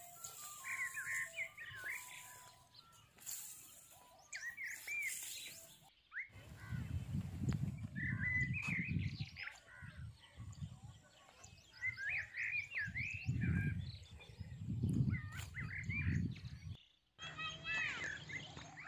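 Small birds chirping over and over in short runs of quick, up-and-down calls. Through the middle stretch they are joined by an uneven low rumble.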